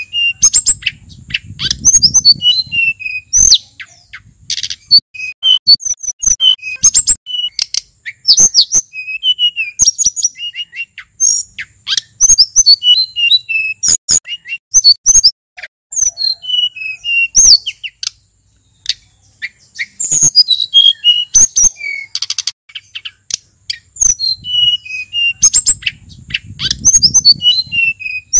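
Male sulingan bird singing a fast, varied song of short whistled notes, slurs and sharp clicks, phrase after phrase with brief gaps.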